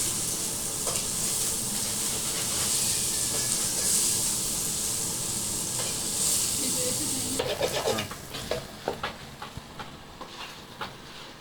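Chicken fry sizzling in a pan in its last stage of frying, stirred with a spoon. About two-thirds of the way through, the sizzle cuts off abruptly, leaving scattered clicks and scrapes of the spoon against the pan.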